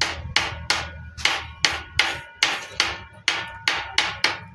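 A hammer striking metal in a steady rhythm, about three blows a second, each blow ringing briefly.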